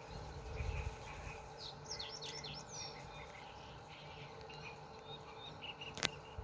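Faint outdoor ambience with a songbird giving a quick run of short, falling chirps about two seconds in, and a few fainter notes later. A single sharp click sounds about six seconds in, and there is a brief low rumble near the start.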